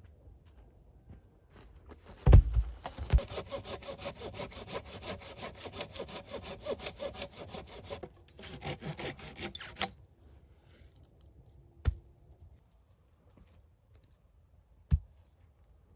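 Hand saw cutting through wood in quick back-and-forth strokes for about eight seconds, with a short break near the end, opening with a thump. Two single sharp knocks follow, a few seconds apart.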